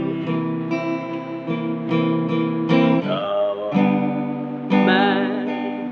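Acoustic guitar strummed in a slow, steady rhythm of chords, accompanying a sung worship song.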